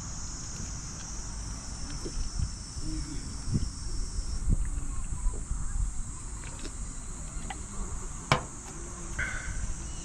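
Insects trilling steadily at a high pitch, one layer of the chorus stopping about halfway through, over a low rumble with scattered small knocks and one sharp click near the end.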